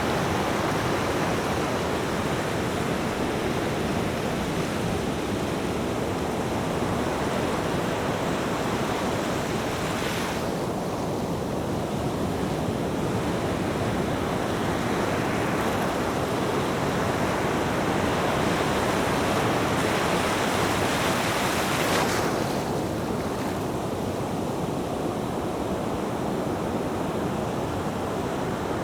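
Ocean waves breaking and washing on a shore: a continuous rush that swells and eases, its bright hiss dropping away suddenly twice as the wash draws back.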